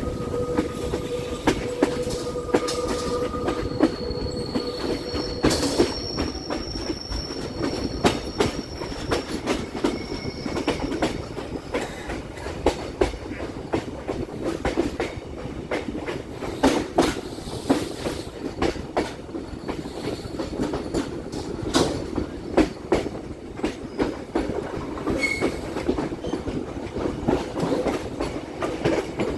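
Passenger train wheels rolling over rail joints and points with irregular clicks and knocks. High wheel squeal tones ring for roughly the first ten seconds, typical of a train taking curves and switches at low speed as it runs into a station.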